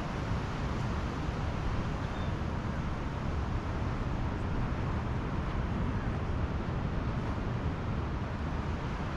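Steady rushing of Pacific Ocean surf mixed with wind, heaviest in the low rumble, with no single wave crash standing out.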